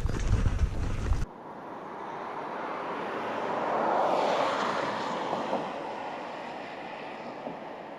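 Train noise: a loud low rumble with a steady rhythmic knocking cuts off abruptly about a second in. A rushing noise then swells to a peak midway and slowly fades.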